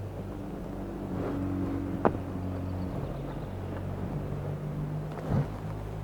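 KTM 1290 Super Adventure's V-twin engine running at low revs, its note shifting in steps. A sharp click comes about two seconds in, and there is a short louder burst near the end.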